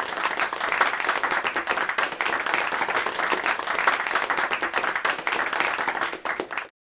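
Applause: many hands clapping in a dense, even patter that starts abruptly and cuts off sharply near the end.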